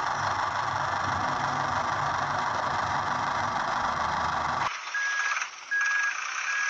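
Steady machine engine noise that cuts off suddenly about four and a half seconds in, followed by three short high beeps about a second apart, like a vehicle's reversing alarm.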